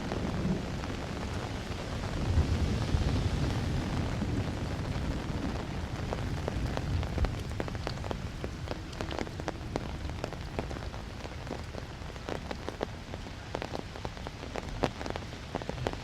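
Steady rain, with a low rumble of thunder dying away in the first few seconds, then many sharp ticks of single drops striking close by from about six seconds on.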